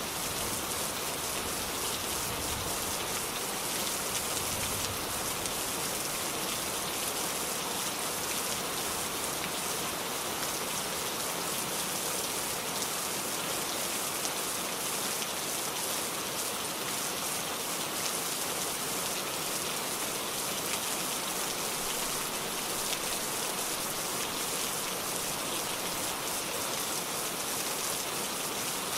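Steady rain falling and pattering on a surface, an even hiss of many fine drops with no change in strength.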